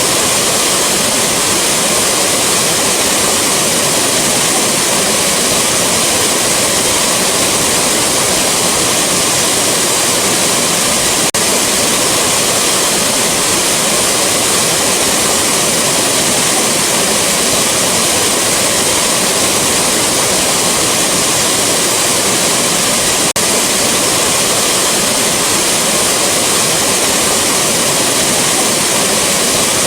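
Rushing waterfall: a loud, steady roar of falling water.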